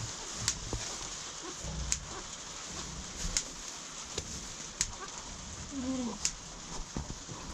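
Farmyard sound: a steady hiss with a sharp tick about every second and a half, and a short sliding animal call about six seconds in.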